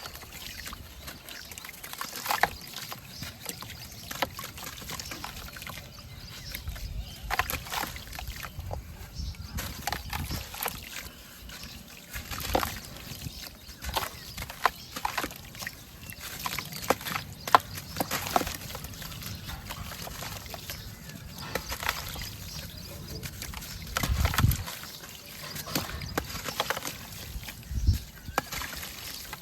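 Pieces of dried white cement crumbling in water: irregular sharp crackles and crumbles over sloshing water, with a heavier splash about 24 seconds in.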